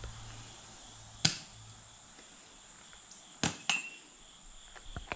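Pieces of metal scrap clanking as they are tossed onto a pile: a sharp clank about a second in, two more close together a little past the middle, the second ringing briefly, and a light knock near the end.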